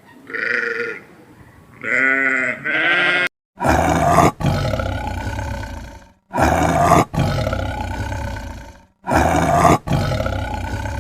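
Animal calls: two short, pitched bleat-like calls, then from about three and a half seconds in, a run of six loud, rough roaring calls, each up to about two seconds long and parted by short breaks.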